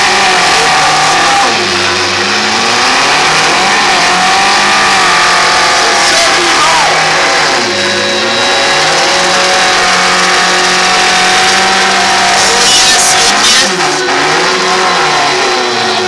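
Demolition derby cars' engines revving hard, their pitch rising and falling again and again as they push and spin in the pit.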